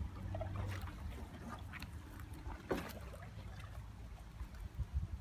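Small paddled boat on the water: faint splashing and light knocks of paddle or hull against a low steady rumble, with one sharper knock about halfway through.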